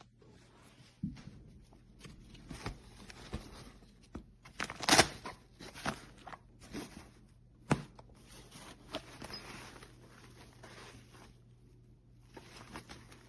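Handling noises from a fabric travel bag: soft rustling with scattered clicks and knocks, the loudest knock about five seconds in and a sharp click near eight seconds.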